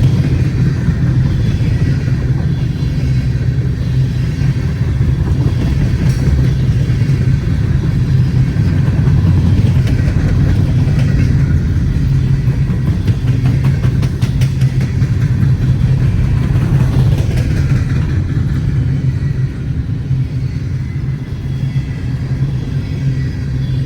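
Canadian National freight train rolling past, a steady heavy rumble.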